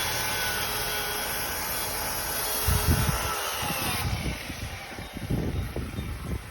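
Power tool running with a steady whine that sags slightly in pitch and fades out about four seconds in, while the Masonite siding is being cut out. An uneven low rumble comes in from about three seconds.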